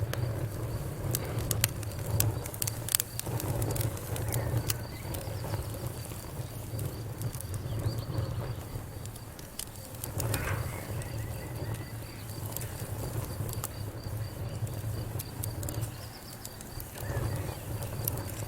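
Wood fire in a fireplace crackling, with sharp pops and snaps over the low, steady rumble of the flames; the pops come thickest in the first few seconds.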